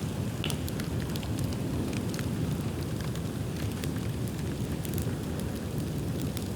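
Bonfire of dry dead bamboo burning: a steady low rushing of flames under scattered sharp crackles and pops.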